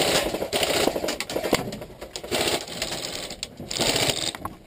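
Airsoft guns firing in rapid full-auto bursts: a dense, fast mechanical rattle that comes in about three bursts with short breaks between them.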